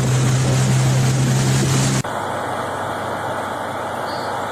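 A motor engine runs with a steady low hum over loud rushing wind noise, then cuts off abruptly about two seconds in. A quieter steady background hiss follows.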